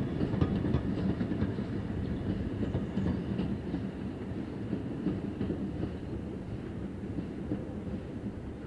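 Steam-hauled passenger train running past, its coach wheels clicking on the rails over a steady rumble that slowly fades as the train moves away.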